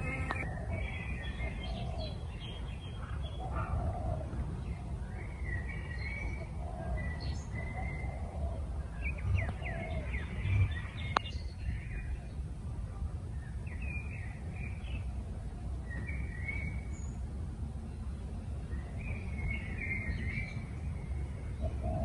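Outdoor birds calling: short chirping calls recurring every second or two, with a run of lower, softer calls in the first half. A steady low rumble runs underneath, with a few brief knocks about ten seconds in.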